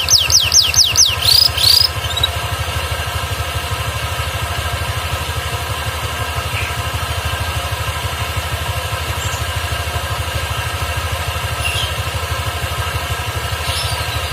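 Canary singing a trill of quick falling whistled notes for about the first two seconds, then giving a few single short chirps: a bird resuming its song after a spell of not singing. A steady low engine-like hum runs underneath.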